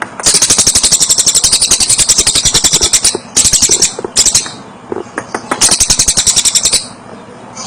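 A tengkek cililin, a kingfisher kept as a song-training bird, giving its loud, high rattling trill of rapid sharp notes, about fifteen to twenty a second. One long rattle of nearly three seconds is followed by three shorter bursts.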